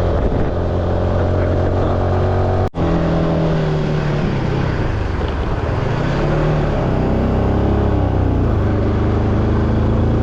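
Motorcycle engine running under way, its pitch holding and then dipping and rising again as the throttle changes, with a brief break in the sound about three seconds in.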